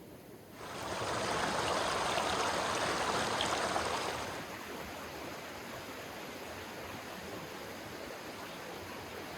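Stream water flowing, a steady rushing that starts suddenly about half a second in, is louder for a few seconds, then settles to a lower, even level.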